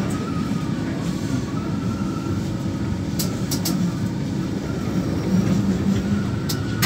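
A train's steady low rumble with a humming tone that fades in and out, and a few light clicks about three seconds in and again near the end.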